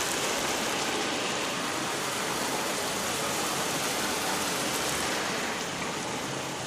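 Automatic car wash spraying water over the car, heard from inside the cabin as a steady rushing hiss that eases slightly near the end.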